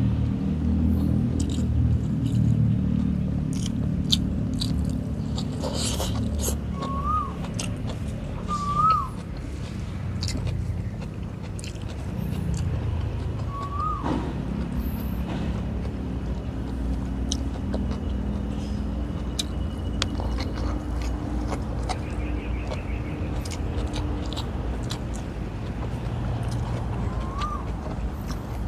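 Close-miked chewing, lip smacking and mouth clicks of someone eating by hand, over a steady low rumble. A bird gives a short rising-and-falling whistle a few times.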